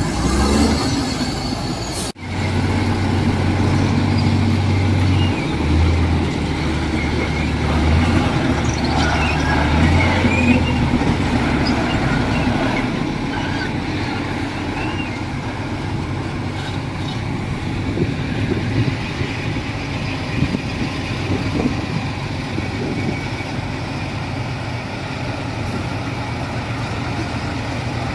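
Heavy earthmoving machinery working: a diesel engine running steadily under a racket of metal clanking and squealing, with a brief sudden break about two seconds in.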